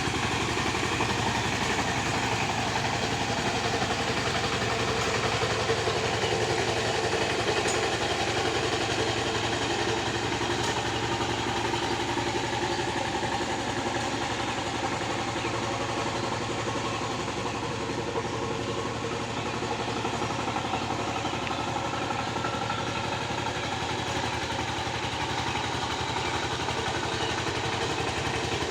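Tractor engine running steadily at an even pace, with a slight dip in level about two-thirds of the way through.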